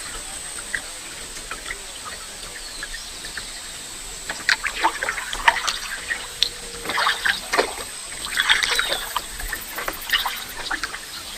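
Water trickling and dripping, with many short, sharp chirps and clicks that come thicker from about four seconds in.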